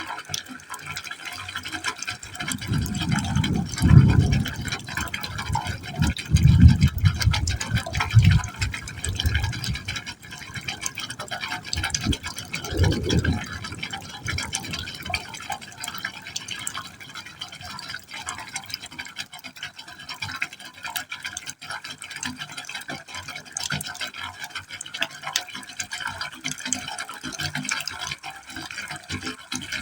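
Water falling into a pipe hole, a steady splashing and trickling. A few louder, deeper surges come in the first half.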